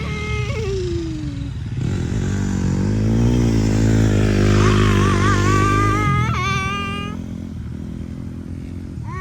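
Small dirt bike engine revving up and riding past, rising in pitch and getting louder to a peak about halfway through, then dropping off and fading.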